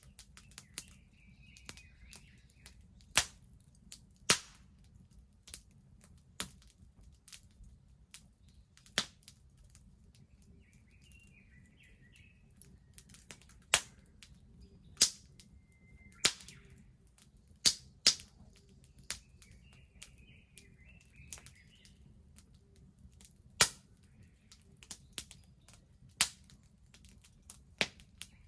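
Wood bonfire crackling, with sharp irregular pops and snaps from the burning logs. Birds chirp briefly a few times in the background.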